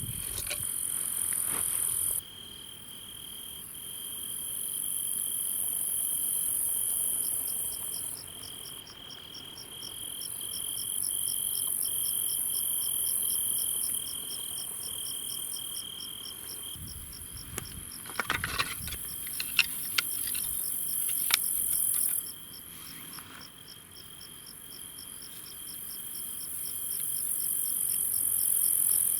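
Crickets and other insects calling: a high, shimmering trill that swells and fades in phrases a few seconds long, over a steady chirp repeating about twice a second. A few sharp clicks and taps come about two-thirds of the way through.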